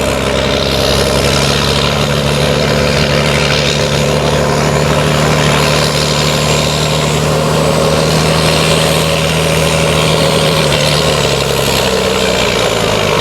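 Farm-stock diesel tractor engine running hard and steady under load while pulling the weight-transfer sled. The engine note drops near the end as the pull finishes.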